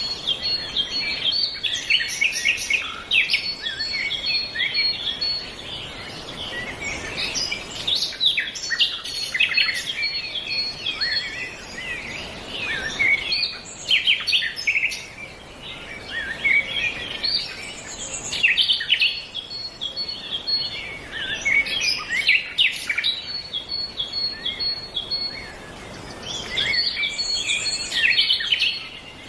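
Several birds chirping and singing at once, short calls overlapping almost without pause, with a few brief lulls.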